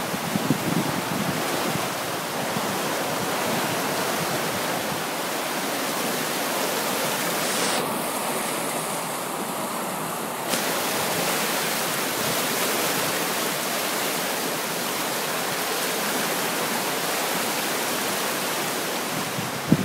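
Steady rushing of fast-flowing floodwater. About eight seconds in, the hiss dulls for a couple of seconds, then returns.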